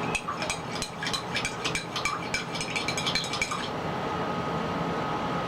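A spoon stirring in a drinking glass, clinking against the sides about four or five times a second and stopping about three and a half seconds in.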